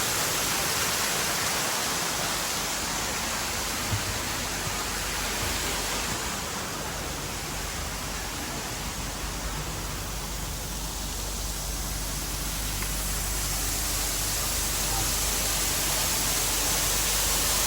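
Waterfall rushing: a steady, unbroken noise of falling water, easing a little in the middle and building again toward the end. A single faint knock about four seconds in.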